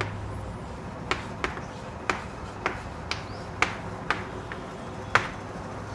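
Irregular sharp taps of a writing tool striking the writing surface while writing, about nine over the few seconds, over a low steady hum.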